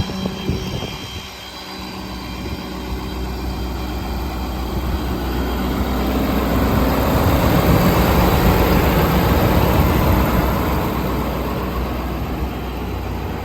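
A truck engine running with a steady low rumble, under a broad rushing noise that swells through the middle and eases off near the end.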